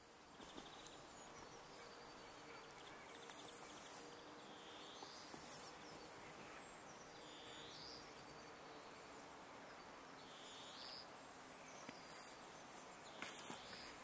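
Faint outdoor ambience with a steady hiss and low hum, through which a bird gives four short, curling whistled calls a few seconds apart.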